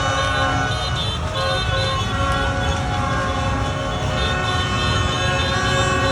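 Many horns sounding at once in overlapping held tones over the steady rumble of a mass of motorbike engines: a street victory-celebration parade.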